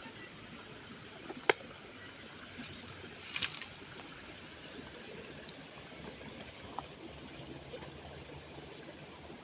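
Steady trickle of flowing water, with one sharp click about a second and a half in and a short clatter about two seconds later.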